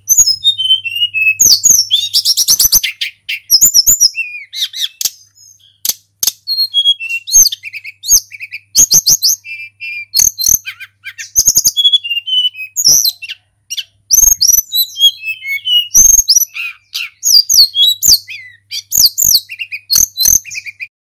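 Tledekan gunung songbird singing loud, close, fast runs of varied whistled and trilled phrases, with short pauses between the runs.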